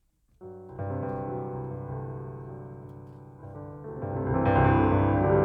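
Soft piano music: sustained chords come in after a brief silence, swelling louder about four seconds in.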